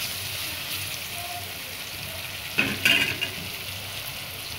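Sliced onions and green chillies sizzling steadily in hot oil in a metal pan as they are stirred with a spatula. About two and a half seconds in, the spatula gives a sharper scrape and clink against the pan.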